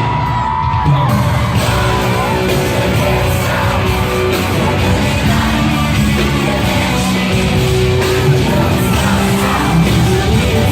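Loud live pop-rock music played through a concert sound system, with a singer's voice and shouts over the band, echoing in a large hall.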